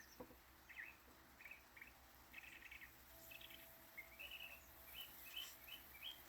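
Faint birds chirping outdoors: scattered short chirps, then a quick run of short rising notes in the second half.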